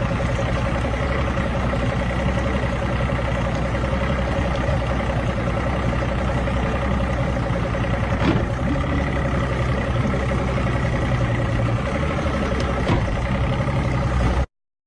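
A vehicle engine running steadily at an even speed, with two brief knocks about eight and thirteen seconds in.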